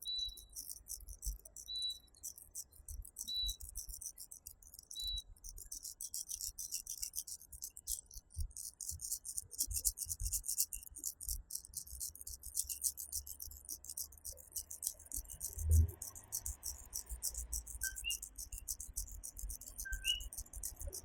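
Night chorus of coquí tree frogs over a dense, rapid high-pitched insect trill. Short whistled frog notes repeat about every second and a half until about five seconds in, and a few two-note "co-quí" calls come near the end, with one low thump about sixteen seconds in.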